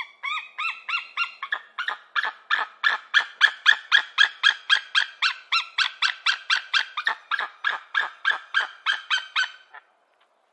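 An animal calling in a fast run of about forty short, high, squeaky calls, about four a second, that stops suddenly near the end.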